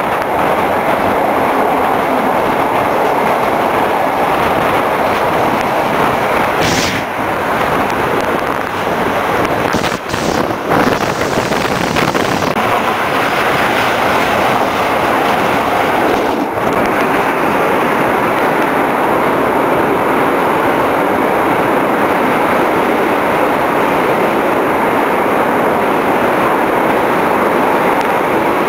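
Steady running noise of a moving passenger train heard from an open carriage window, wheels on rails mixed with rushing air. About ten seconds in it grows louder for a few seconds as another train passes close alongside.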